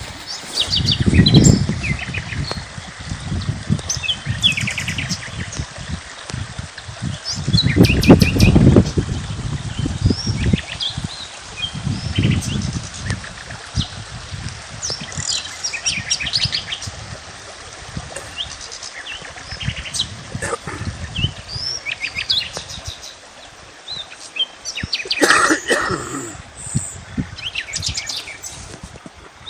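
Many small birds chirping and trilling. There are low rumbling surges, loudest about a second in and about eight seconds in.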